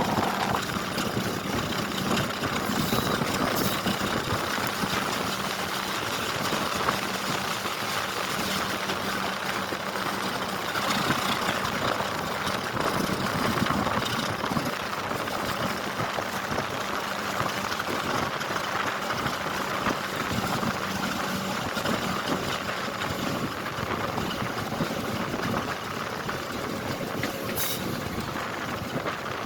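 Steady train noise, a mechanical rumble with a constant hum that stops about two-thirds of the way through.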